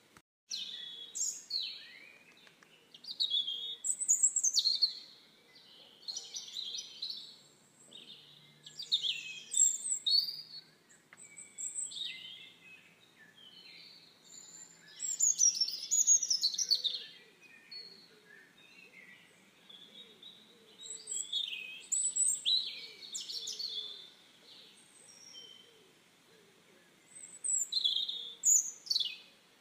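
Songbirds singing: bursts of high chirping and trilling phrases, one every couple of seconds with short pauses between.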